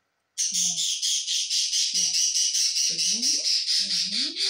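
Small pet birds chattering and squawking loudly in a fast, continuous stream of high-pitched calls, starting suddenly about half a second in.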